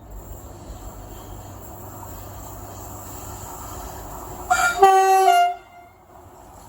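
Approaching train rumbling on the rails, then its horn sounding once for about a second, stepping down a little in pitch near the end.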